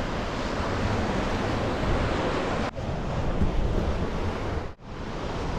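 Baltic Sea surf washing on the shore with wind buffeting the microphone, a dense steady rush. The sound cuts out briefly twice, near the middle and shortly before the end.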